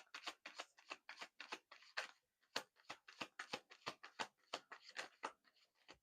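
Deck of oracle cards being shuffled by hand: a steady run of soft, quick card clicks, about four a second.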